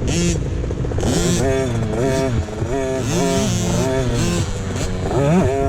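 Motocross bike engines revving, the pitch climbing and dropping again and again as the throttle is opened and closed.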